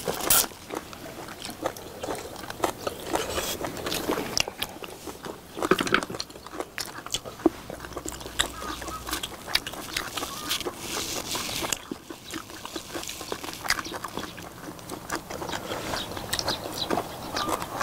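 People chewing and eating braised beef short ribs up close, with wet mouth sounds and irregular sharp clicks, such as chopsticks on dishes.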